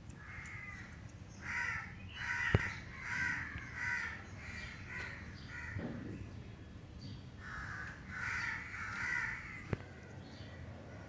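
A bird calling over and over, about two calls a second, in two bouts with a short pause between. Two sharp clicks stand out, one about two and a half seconds in and one near the end.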